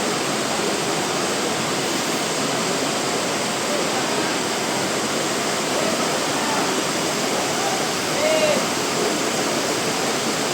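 Heavy rain falling, a steady, dense rushing hiss. A brief faint pitched sound rises out of it a little after eight seconds.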